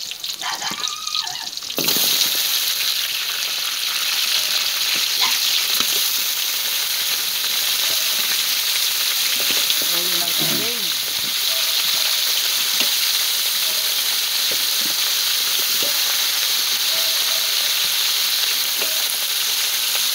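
Chopped garlic and onion frying softly in oil in a large metal wok. About two seconds in, this gives way suddenly to a much louder, steady sizzle of goat meat searing in the hot wok.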